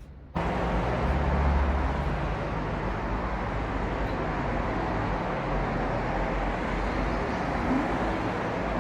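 Steady road-vehicle noise, a low rumble under an even hiss, cutting in suddenly just after the start.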